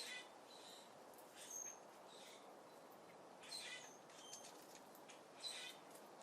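Small birds chirping: short, high calls about once a second, over a faint steady hiss.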